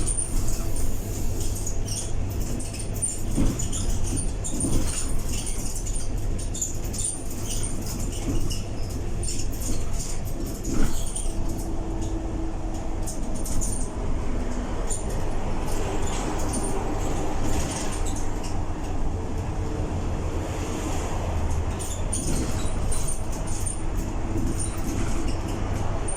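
Scania K230UB single-deck bus running along, heard from inside the saloon: a steady low engine and road rumble with a hum, and frequent small rattles and clicks from the body and fittings.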